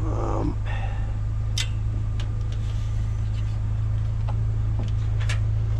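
Vehicle engine idling with a steady low hum, with a few sharp clicks and taps as bungee cords are hooked and stretched over a load.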